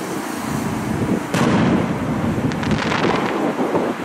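Aerial firework shells going off: a sharp bang about a second in, then a run of crackling near the end.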